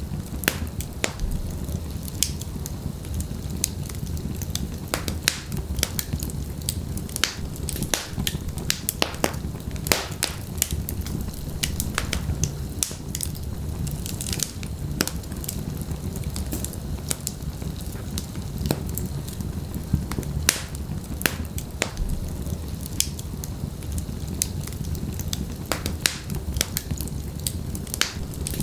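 Wood logs burning in a fireplace, with a steady low rumble of the flames and frequent sharp, irregular crackles and pops.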